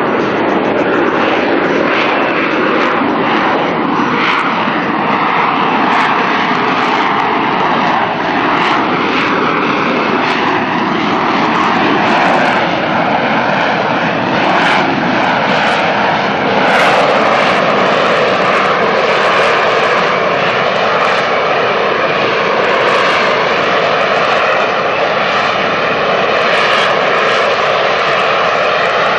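AV-8B Harrier II's Rolls-Royce Pegasus turbofan running loud: a dense jet roar with a whine that slides lower in pitch over the first half, then holds steady.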